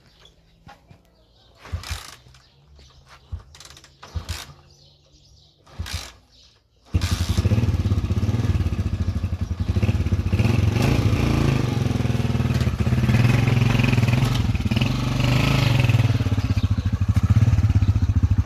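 A few scattered knocks and clicks, then an engine comes on suddenly about seven seconds in and keeps running, loud and steady.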